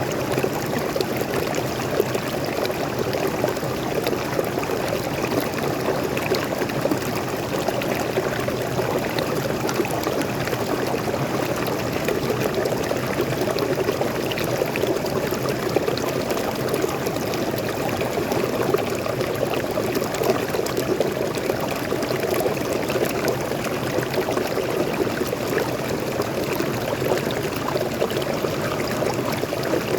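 Water splashing and rushing continuously over a small forest waterfall into a stream, a steady, even sound with no change in intensity.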